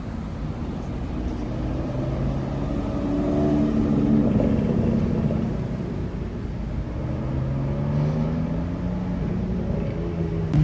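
Car engine running and revving: its pitch climbs a few seconds in, eases off, then climbs again over the last few seconds.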